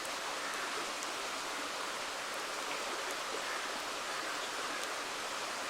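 River water flowing and rushing steadily, with a few faint crackles from a wood campfire.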